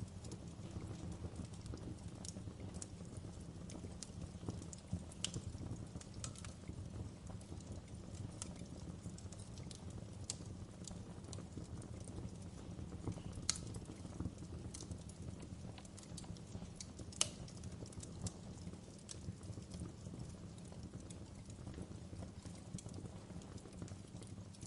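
Fireplace fire crackling: a steady low rumble of flames with irregular sharp pops and snaps, the loudest about 13 and 17 seconds in.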